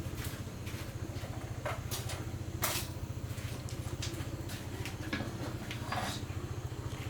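A small engine running steadily, with scattered clicks and knocks over it.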